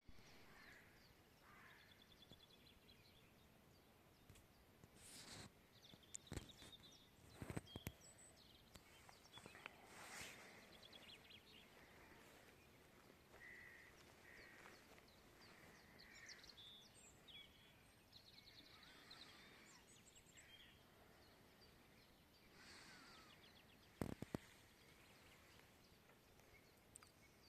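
Faint dawn birdsong: scattered chirps and short trills from several small birds over a quiet background, with a few sharp knocks.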